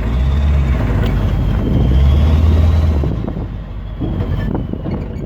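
A car driving: a low engine drone over road noise, swelling twice and loudest about two to three seconds in.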